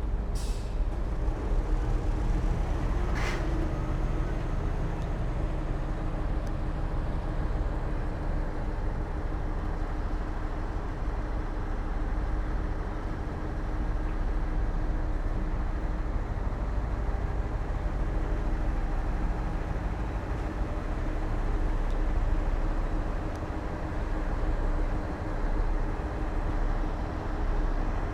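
Diesel engine of heavy earthmoving machinery running steadily with a low rumble. Two brief high-pitched hisses or squeaks sound near the start and about three seconds in.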